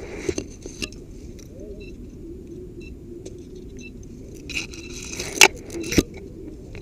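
Jingling and rattling of carried gear, with two sharp clicks a little over half a second apart near the end, over a steady low rumble.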